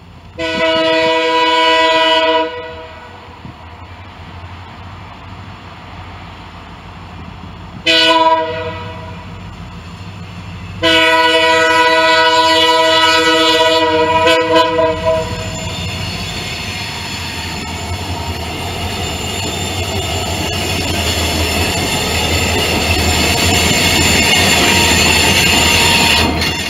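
Norfolk Southern freight locomotive's horn, a chord of several notes, blown long, short, long for the grade crossing. The train then passes, its engine and wheel noise on the rails growing steadily louder until it is cut off near the end.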